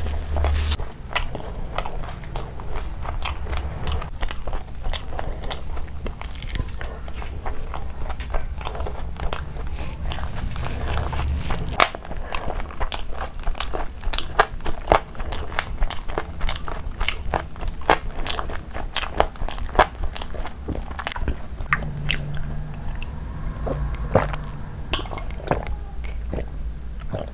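Close-miked chewing of a mouthful of fried chicken: wet smacking and crunching mouth sounds, many sharp irregular clicks. Near the end comes a drink from a glass.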